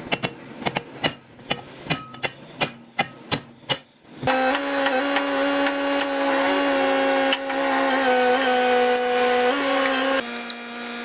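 A quick series of sharp hammer blows, about two or three a second. About four seconds in, a power tool starts running with a steady pitched hum, dips in pitch a few times, and then stops near the end.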